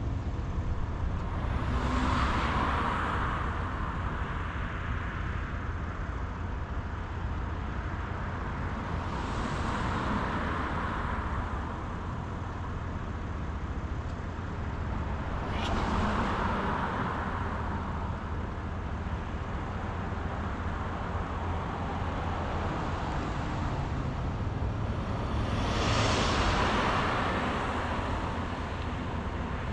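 Steady road and engine rumble of a car driving, with four vehicles passing in the opposite direction, each a rush of noise that swells and fades.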